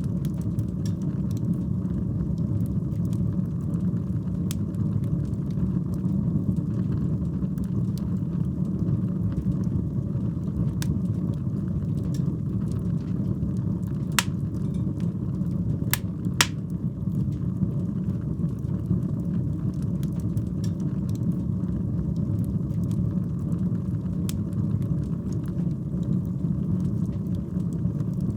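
Fire burning in a fireplace: a steady low rush of flame with scattered crackles throughout, and a few sharper pops about halfway through.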